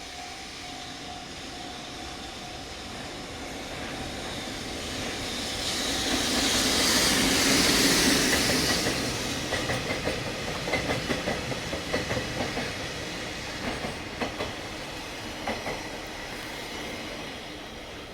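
Freight train led by an EF65 electric locomotive passing through a station: its noise swells to a loud peak about seven seconds in. Then the tank wagons and container flat cars follow, their wheels clacking over the rail joints in quick, uneven beats that fade as the train draws away.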